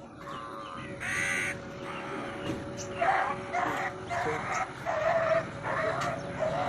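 An animal calling over and over in short, high-pitched cries: one call about a second in, then a quick string of them from about three seconds on, over a faint steady hum.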